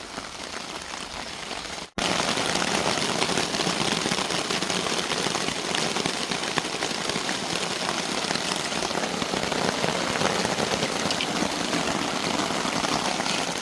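Steady rain falling, a dense hiss of many fine drops. About two seconds in it cuts out for an instant and comes back louder.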